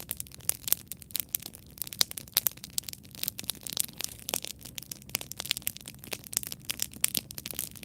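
Wood campfire crackling: dense, irregular snaps and pops from burning logs over a soft low hiss.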